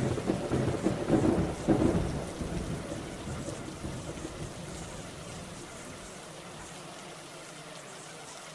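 A thunderclap that starts suddenly and rumbles away over a few seconds, over a steady hiss of rain.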